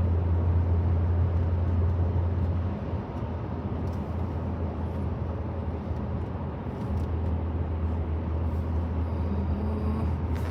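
Steady low rumble of a running vehicle, with no distinct firework bangs; it eases for a few seconds about three seconds in, then comes back.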